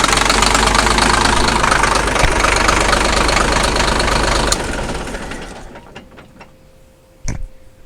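Caterpillar D6B crawler tractor's engine running steadily, then shut off about four and a half seconds in, dying away over the next couple of seconds. A single short knock near the end.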